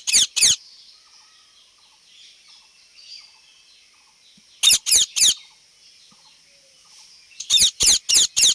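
Indian ringneck parrot giving short, high-pitched calls in three quick bursts: three calls at the start, three more about five seconds in, and four or five near the end.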